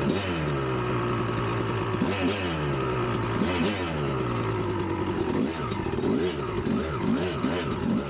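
1999 Kawasaki KX250's single-cylinder two-stroke engine revved over and over, its pitch climbing and dropping about every second and a half, with quicker, shorter blips in the second half.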